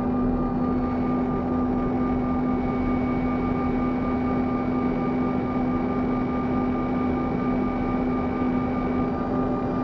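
Airliner cabin noise in flight: a steady engine drone with a constant low hum over an even rush of air.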